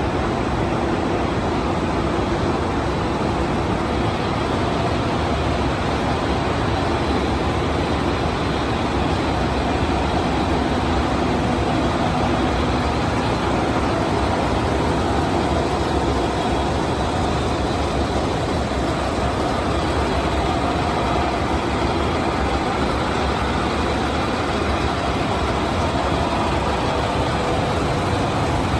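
Hose braiding machines on a braided-hose production line running steadily: a continuous dense mechanical clatter with a faint hum.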